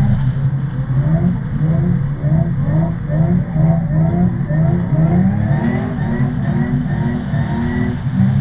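Drift ute's engine revving hard in quick repeated rises, the throttle worked over and over as the car is held in a drift.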